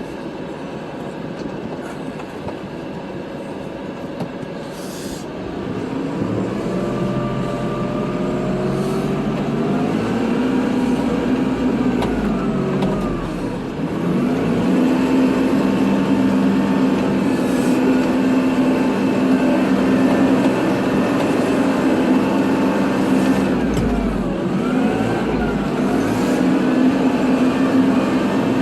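Kubota tractor's diesel engine running while plowing snow. The engine revs up about five seconds in, dips briefly, and from about fourteen seconds holds higher revs, its pitch rising and falling as it works.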